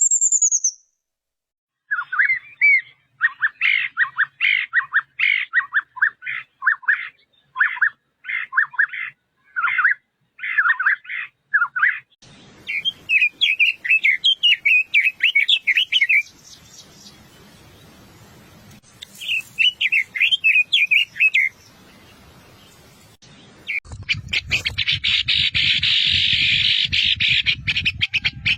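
Chestnut-vented nuthatch calling: repeated short bursts of quick, high chirping notes, in several separate stretches. Near the end comes a dense, continuous chatter over a low rumble.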